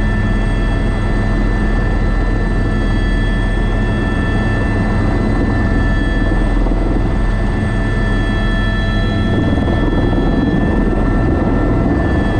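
Airbus AS350B3 (H125) helicopter running steadily: a constant turbine whine over the low drone of the rotor.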